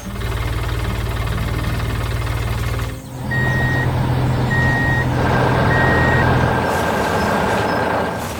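Heavy construction-vehicle engine running, with three short reversing beeps about a second apart a few seconds in; a steady higher whine joins the engine for the last few seconds.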